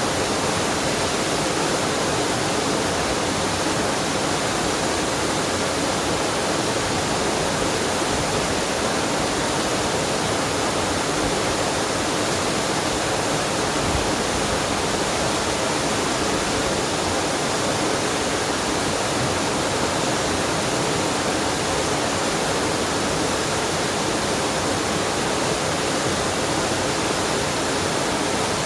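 Waterfall and mountain stream: a steady, unbroken rush of falling and flowing water.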